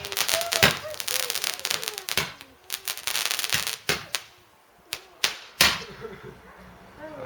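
Fireworks exploding: a fast crackle of many small bangs for about the first two seconds, then single sharp bangs every half second or so, some in quick pairs.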